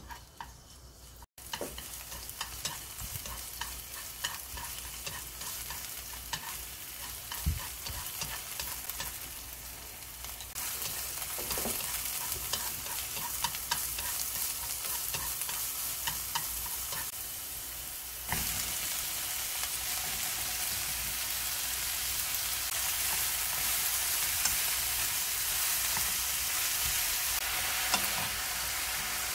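Green onion, carrot and oyster mushrooms sizzling in hot oil in a wok as they are stir-fried, with frequent light taps of chopsticks and a wooden spatula against the pan. The sizzle gets louder in two steps, about a third and two-thirds of the way through, as more vegetables go in.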